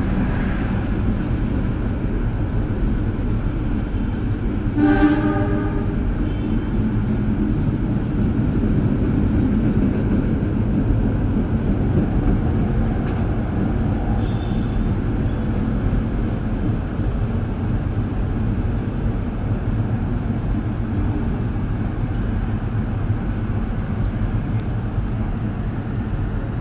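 Passenger train running with a steady low rumble, and a short horn toot about five seconds in.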